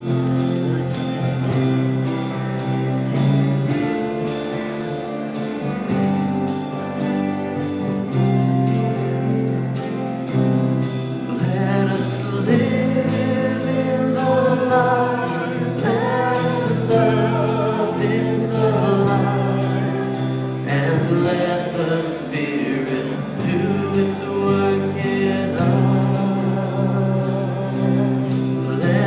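Gospel music: sustained keyboard chords over a steady beat, with voices singing from about twelve seconds in.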